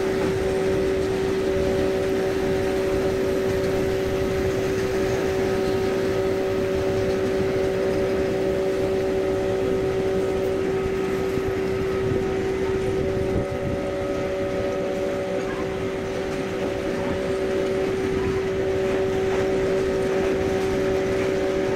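Steady electric hum with a constant tone from a standing TGV inOui set's running equipment. Under it is the continuous rolling noise of a long freight train of tank wagons passing. A second, higher tone in the hum cuts out and comes back a few times.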